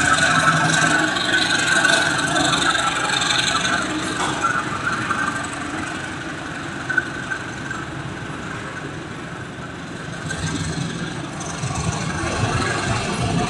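A train running along the rails, loudest at the start, easing off midway and building again near the end.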